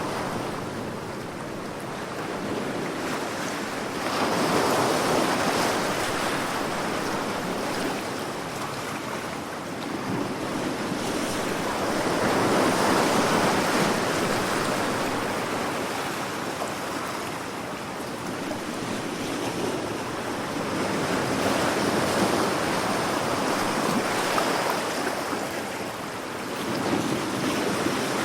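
Sea waves breaking and washing up the shore in slow swells. Each surge of surf builds and fades over several seconds, about three in all.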